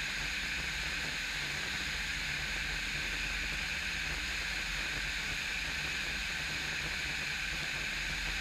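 Steady hiss with a faint low hum, the in-flight background of an aircraft's headset and intercom audio feed between radio calls.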